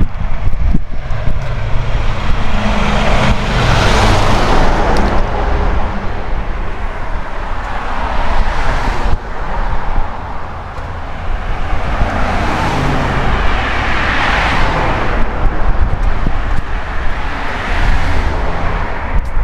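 Road traffic: about five cars pass one after another, each one's tyre and engine noise swelling and fading, over a constant low rumble.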